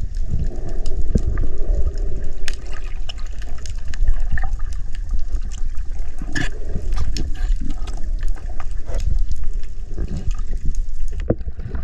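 Water sloshing and churning around a camera at or just under the sea surface: a constant muffled rumble with scattered sharp clicks and pops.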